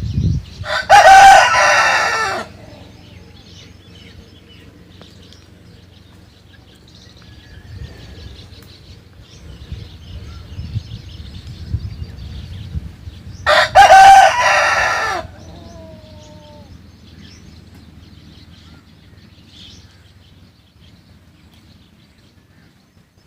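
A rooster crowing twice, each crow about two seconds long, the second some twelve seconds after the first.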